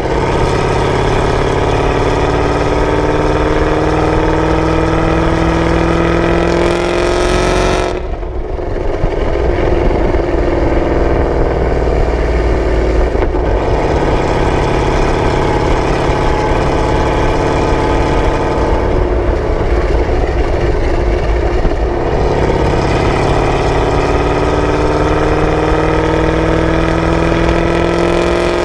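Chevrolet Camaro ZL1's supercharged V8 through a Corsa exhaust, heard from the rear of the car while driving: the exhaust note climbs slowly in pitch for several seconds under light throttle, breaks off sharply about eight seconds in as on a gear change or lift, runs rougher for a while, then climbs slowly again near the end.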